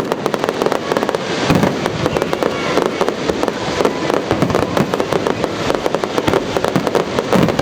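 Fireworks crackling and popping in a dense, rapid stream of sharp bangs.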